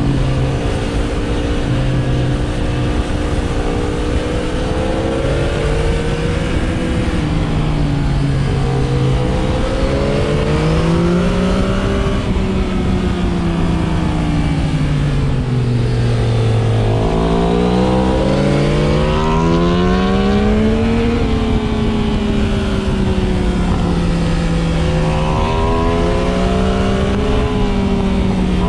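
Sport motorcycle engine on the move, its pitch climbing and falling with throttle and gear changes. It slows through a long drop in the middle, then pulls away again and settles to a steadier cruise near the end, over a constant rush of wind and road noise.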